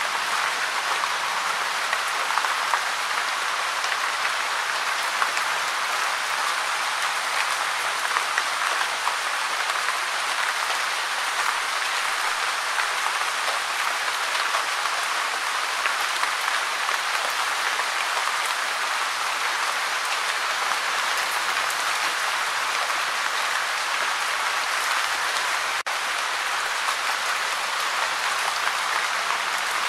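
Gentle, steady rain: a dense, even patter of many small drops. There is a split-second dropout about 26 seconds in.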